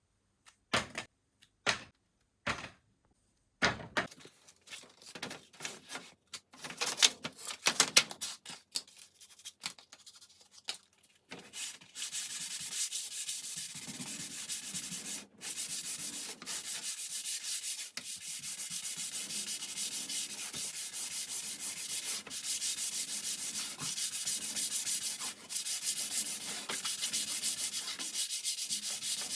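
Scattered clicks and knocks, then, from about eleven seconds in, steady scratchy rubbing on wood, mostly high-pitched, with a few brief breaks.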